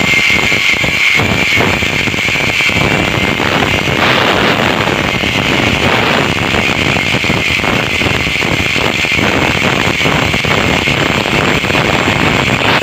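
Angle grinder cutting through the steel shell of a refrigerator compressor: a loud, steady grinding noise with a high whine, cutting off suddenly at the end.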